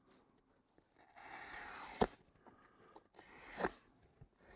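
Styrofoam board being trimmed: two scraping cuts, each ending in a sharp snap, the first snap about two seconds in.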